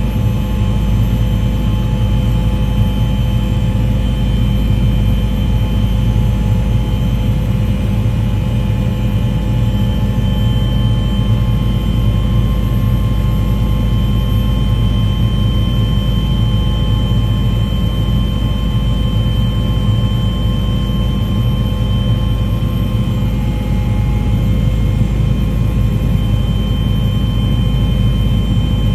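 Aircraft engine droning steadily, with a constant high whine over a deep rumble.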